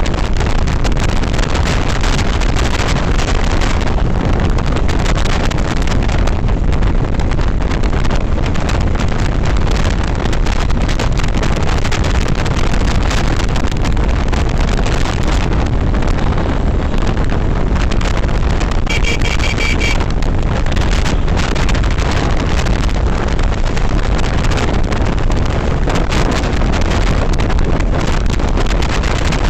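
Steady wind rush buffeting the microphone of a Yamaha FZS V3 motorcycle on the move, with road and engine noise underneath. A brief high beep sounds about nineteen seconds in.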